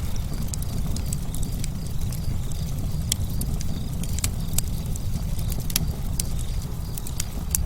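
Campfire burning, with frequent sharp crackles and pops over a steady low rumble of flame.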